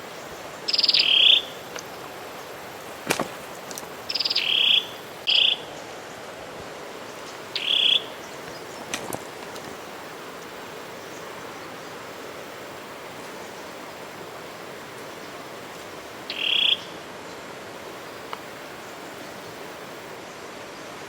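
A frog calling: five short, high-pitched croaks at uneven intervals, the last after a long pause, over a steady outdoor hiss.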